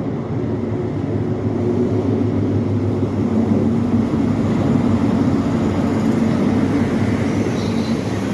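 Class 43 HST diesel power car running as the train pulls into the station, a steady engine drone that grows louder in the middle as it passes and eases slightly near the end.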